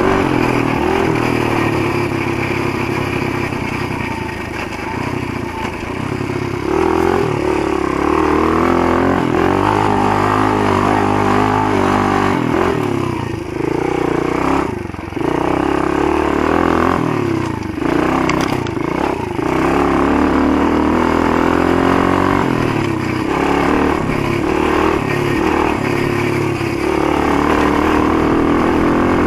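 Motoland GF125 pit bike's 125 cc single-cylinder four-stroke engine running under way, its revs rising and falling with the throttle. The revs drop off briefly a few times around the middle before pulling again.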